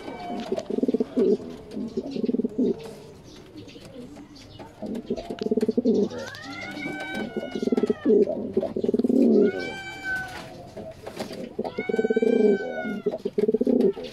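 Domestic pigeon cooing in repeated low, pulsing bouts. A few higher, arching calls come in about six, ten and twelve seconds in.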